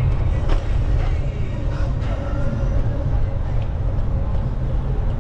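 Steady low rumble of wind on the microphone of a moving bicycle, with city street traffic underneath.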